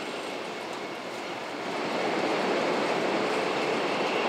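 500 series Shinkansen running, heard from inside the passenger car: a steady rushing rumble that grows louder about two seconds in.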